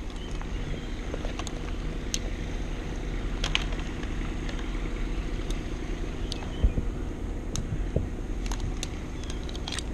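An engine running steadily, with scattered sharp clicks and a couple of dull knocks over it.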